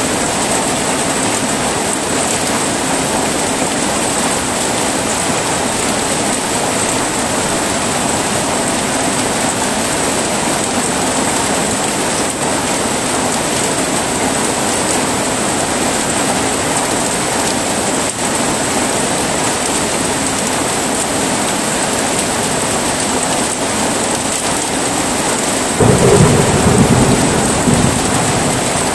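Heavy rain falling steadily in an even hiss. Near the end a loud, low thunder rumble breaks in suddenly and becomes the loudest sound.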